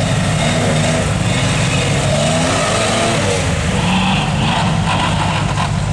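Engine of a Toyota rock crawler running hard under load as it climbs, its pitch rising and falling as the throttle is worked.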